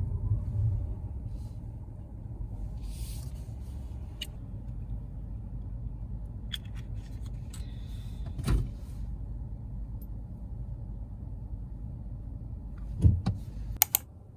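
Low, steady rumble of a car heard from inside while driving, easing off over the first couple of seconds. Scattered clicks, a thump a little past halfway, and a few sharp clicks and knocks near the end, when the rumble stops.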